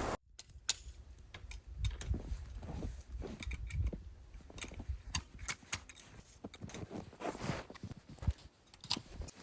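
Irregular series of short clicks, taps and knocks with light rustling, like small objects being handled.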